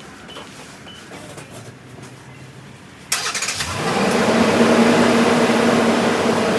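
Car engine being remote-started: a brief crank about three seconds in, catching at once and settling into a steady idle.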